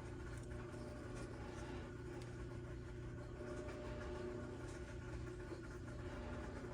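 Steady low hum of workshop background noise, with faint light scratches and clicks of small parts being handled.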